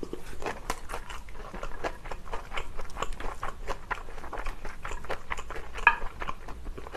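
Close-miked chewing of a mouthful of kimchi fried rice with flying fish roe and green chillies: a steady run of small wet mouth clicks and smacks. Chopsticks clink and scrape through the rice in the dish.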